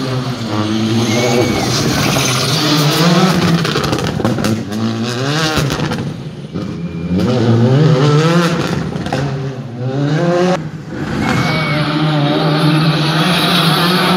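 Rally car engine revving hard as the car drives past, its pitch climbing through the gears and falling sharply when the driver lifts off, about six seconds in and again near eleven seconds, with a few sharp cracks at those lifts.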